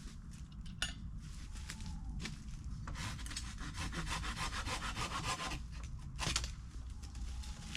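Hand saw cutting through wood, a run of quick rasping strokes that is busiest and loudest from about three to five and a half seconds in.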